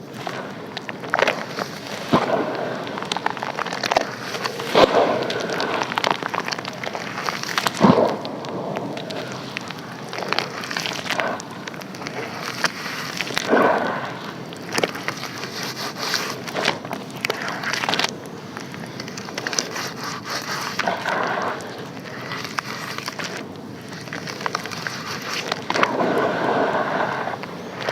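Compressed sand-and-charcoal chunks crumbling, a continuous gritty crackle with many sharp clicks and a series of louder crunches.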